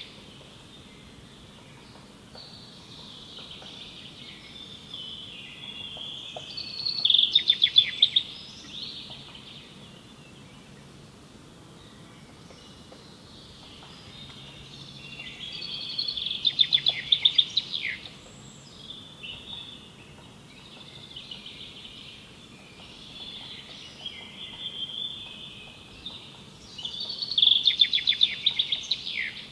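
A songbird singing: varied high chirping phrases, broken about every ten seconds by a loud rapid trill that ends in a downward slur, a quarter of the way in, just past the middle and near the end.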